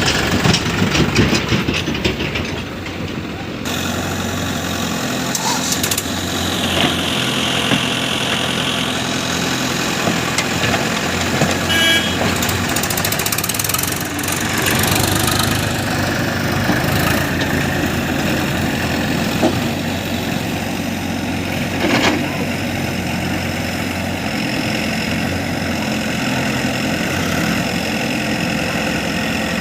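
Heavy diesel engine running steadily, with one sharp knock partway through.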